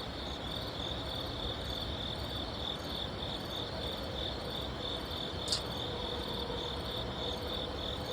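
Crickets chirping in a steady, evenly repeating pulse, with one short click about five and a half seconds in.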